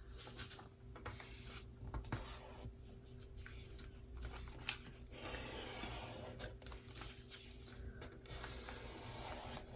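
A sheet of paper rustling and being creased as it is folded, a finger pressing and rubbing along the folds; faint, irregular rubbing and crinkling.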